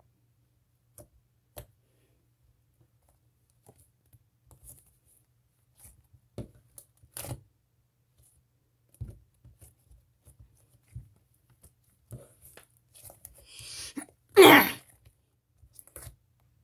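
Slime being handled: scattered small clicks and pops, then a short hiss and one loud, brief burst about three-quarters of the way in.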